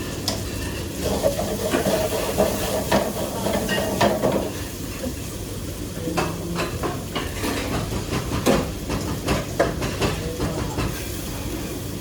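Kitchen clatter: dishes and utensils knocking and clinking over a steady hiss.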